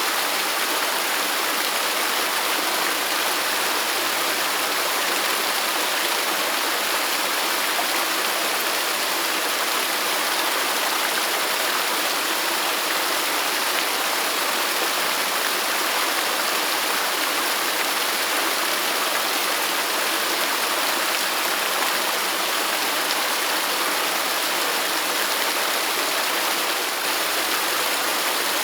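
Waterfall: water pouring and splashing in a steady, even rush with no change over the whole stretch.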